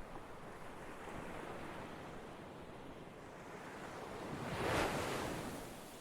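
Ocean waves washing onto a shore, a steady wash with one wave building and breaking near the end before it draws back.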